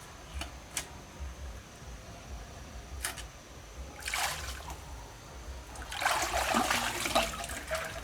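Water splashing and trickling: a few faint clicks, then a short splash about four seconds in and a longer, louder stretch of splashing and dribbling from about six seconds.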